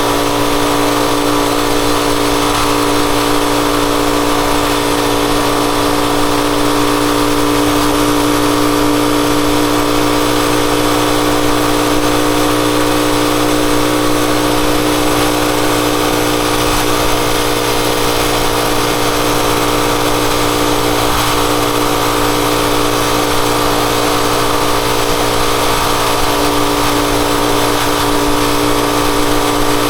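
Rusi Chariot 175 motorcycle engine running at a steady speed, its pitch and loudness holding even throughout.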